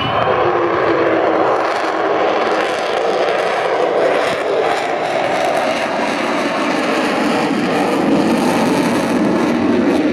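Avro Vulcan jet bomber's four Rolls-Royce Olympus turbojets, loud and steady as the aircraft flies past low, the noise swelling in the first second.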